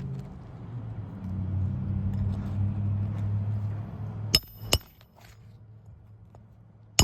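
Two sharp metallic hammer strikes on a roofing nail, less than half a second apart, with a bright ring, over a low steady drone that stops at the strikes.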